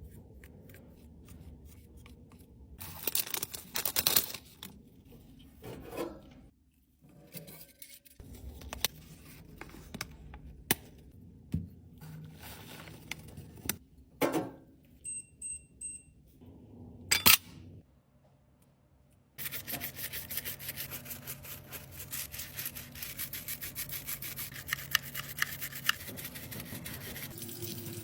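Close-up rubbing and scraping of cosmetic products being repaired, with scattered clicks and knocks, three short high tones in the middle, and a continuous fast scraping through the last third.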